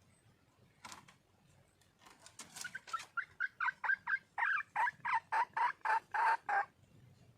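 Red junglefowl hen calling for a male: one short note, then a fast run of about fifteen notes that settles to about three a second and stops suddenly.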